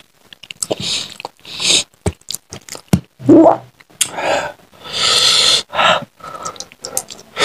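Close-up wet chewing and lip-smacking of a mouthful of rice and curry eaten by hand, in irregular smacks and clicks, with another handful pushed into the mouth near the end.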